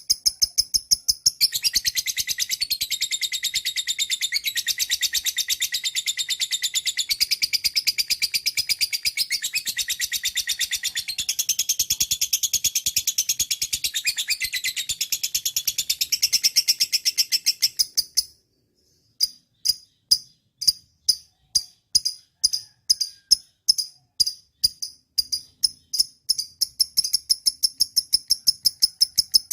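Lovebird chirping in a fast, unbroken string of high-pitched chirps that stops briefly about two-thirds of the way through, resumes as slower, separate chirps a few per second, and quickens again near the end.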